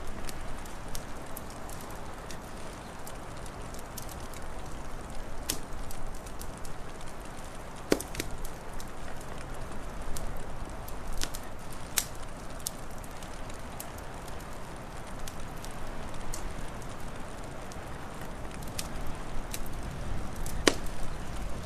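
Wood fire crackling, with scattered sharp pops and snaps, the loudest about 8 and 12 seconds in and near the end, over a steady rushing hiss and low rumble.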